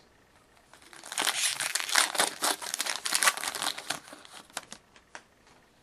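Crinkling and tearing of a trading card pack wrapper as it is torn open and crumpled by hand: a dense run of crackles for about four seconds, thinning to a few light clicks near the end.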